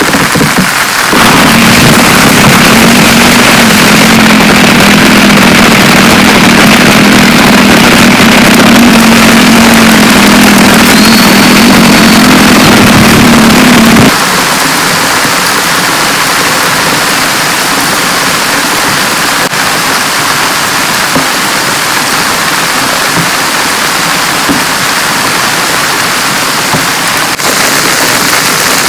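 Heavy rain falling steadily. A vehicle engine idles over it with a steady low hum, then stops abruptly about fourteen seconds in, leaving only the rain.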